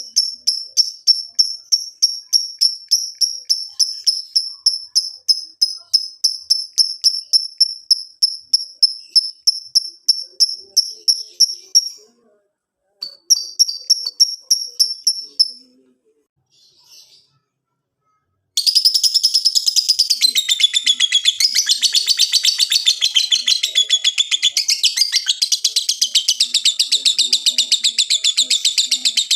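A lovebird calling, first in a long run of high repeated chirps at about three or four a second that stops about twelve seconds in. A short burst of chirps follows, then a pause. From about eighteen seconds in comes a loud, continuous, fast chattering song: the long 'ngekek' of an excited lovebird.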